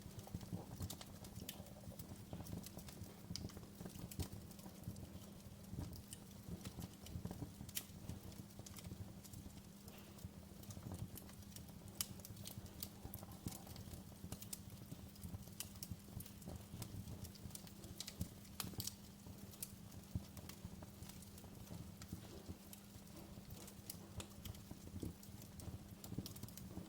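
Wood fire crackling, with frequent irregular sharp pops and clicks over a low, steady rumble of burning.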